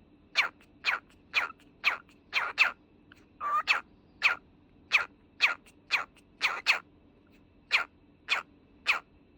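Cockatiel giving short, sharp chirps in a steady rhythm, about two a second, some of them in quick pairs.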